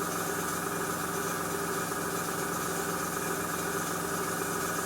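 Small airbrush compressor's motor running with a steady hum, with the airbrush hissing as it sprays a fine mist of paint.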